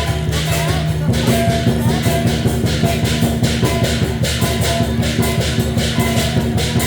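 Percussion music for a dragon dance: drum and cymbal strikes in a quick, even beat, over sustained ringing tones.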